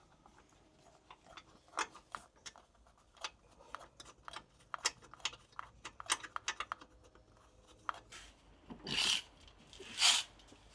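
Parts being handled during truck front-end reassembly: scattered light clicks and taps, then two louder scraping rubs, about nine and ten seconds in.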